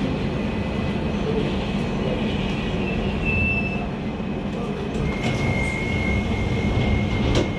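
Docklands Light Railway train running, a steady rumble of wheels on track, with a thin high-pitched wheel squeal from about two and a half seconds and again from about five seconds. A sharp click comes near the end.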